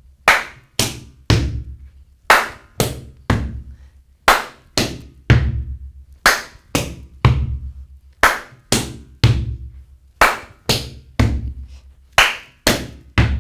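Gumboot dance percussion: hand claps, hand slaps on rubber gumboots and boot stamps on a platform, in a steady repeating pattern of about three strokes a second, the stamps with a deep thud.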